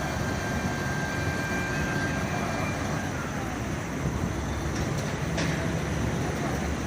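Motor vehicles running with steady road traffic noise. A faint steady whine fades out about three seconds in and slides down in pitch as it goes.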